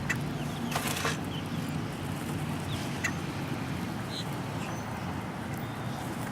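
Birds giving short, scattered chirps, with a brief rustling whoosh about a second in that fits wings flapping, over a steady low rumble.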